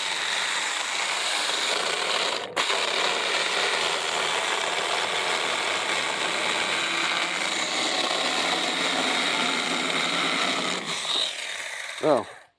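Battery-powered mini chainsaw running steadily as it cuts through a piece of wood, with a brief stop about two and a half seconds in. The saw stops near the end.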